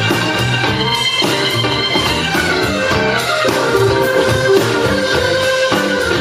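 Live blues band playing: electric guitar and bass over drums with a steady beat.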